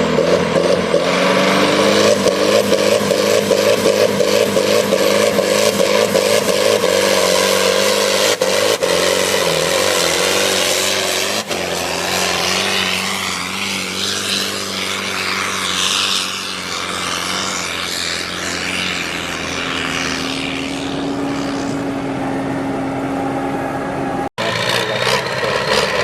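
Tractor engine running loud and hard at high revs, as in a tractor-pull run, its pitch holding fairly steady and shifting about halfway through; the sound drops out for an instant near the end.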